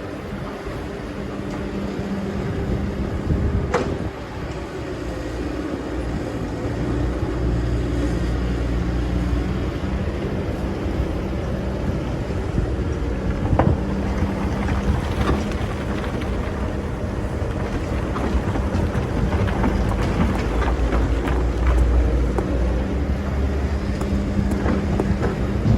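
Excavator's diesel engine running under load, its note rising and falling as it works, with a couple of sharp knocks, one about four seconds in and another about halfway through.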